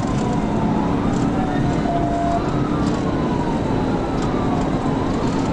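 Police siren wailing, its pitch rising and falling slowly, over the loud constant road and wind roar of a patrol car driving at high speed in a pursuit.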